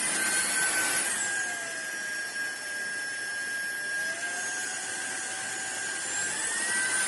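SunSare cordless stick vacuum running with a high motor whine over a steady rush of air. The motor's pitch drops about a second in and climbs back up from about four seconds as the suction power changes.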